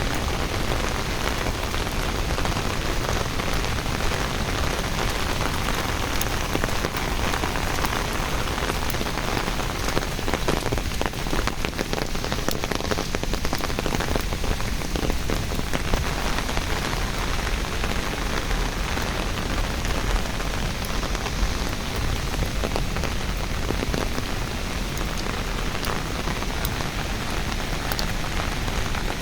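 Steady, unbroken rushing of water, with a few faint scattered ticks.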